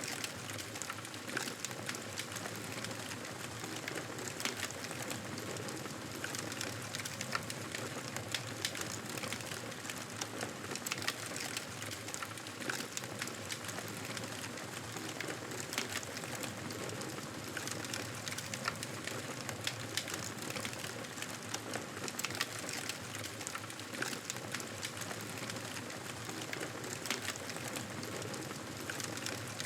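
Wood fire crackling steadily: a constant hiss with frequent small, irregular pops and snaps.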